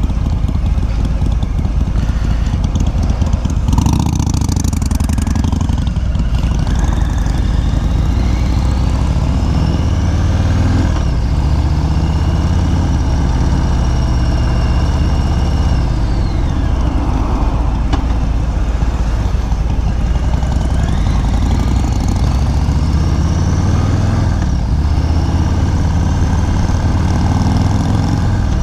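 Harley-Davidson motorcycle engine running under way, a steady low rumble. Its pitch climbs as the bike speeds up, drops as it slows, then climbs again.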